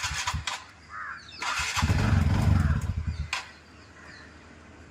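Freshly rebuilt TVS Ntorq 125 scooter's single-cylinder four-stroke engine running, revved once for about a second and a half, then dropping back to a quiet idle.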